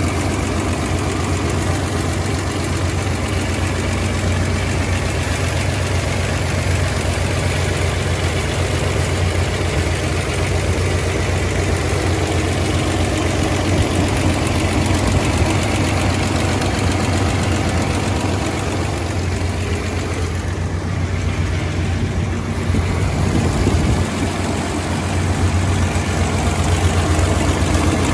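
Supercharged 1957 Ford Thunderbird's Y-block V8 idling steadily, with a low, even hum.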